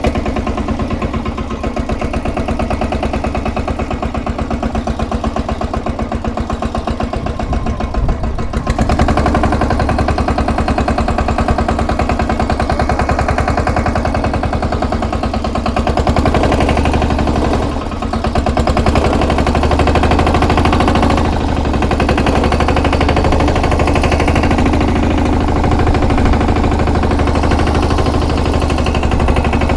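Jai Kisan mini tractor tool bar's 18 HP diesel engine running steadily just after being started. It runs louder from about eight seconds in.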